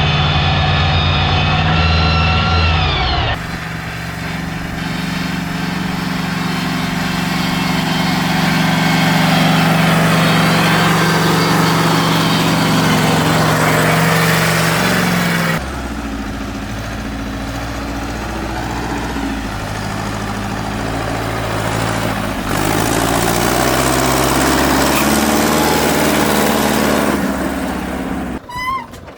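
Tractor engines running steadily, the sound changing abruptly three or four times as one engine gives way to another.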